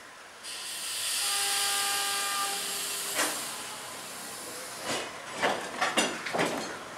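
Stationary passenger train releasing air with a loud hiss, with a horn note sounding for about a second and a half under it. Then a run of sharp clanks and knocks as the train starts to pull out.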